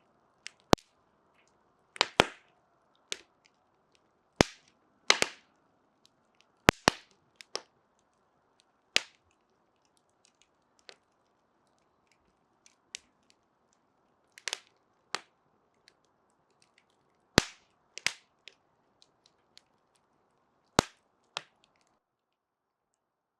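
Wood fire crackling: irregular sharp pops and snaps, a few quick doubles, over a faint hiss of flame. The hiss and pops stop about a second and a half before the end.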